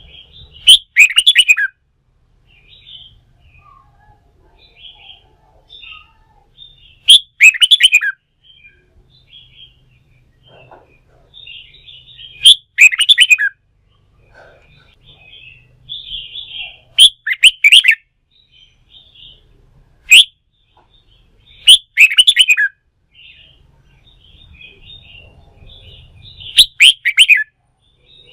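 Red-whiskered bulbul singing: loud song phrases of about a second, each falling in pitch, repeated roughly every five seconds, with softer chattering calls in between.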